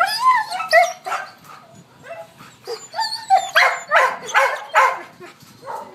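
Dogs barking and yelping: high calls that slide up and down in pitch, then a quick run of sharp, loud barks about three and a half seconds in.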